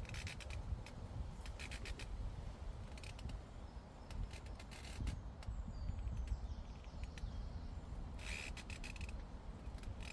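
Llama grazing close by, cropping grass in short bursts of rapid crisp tearing clicks, four times. Low wind rumble on the microphone runs underneath, with faint birdsong in the middle.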